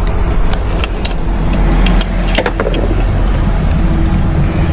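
Scattered light clicks and taps of small parts being handled and pulled free, over a steady low rumble.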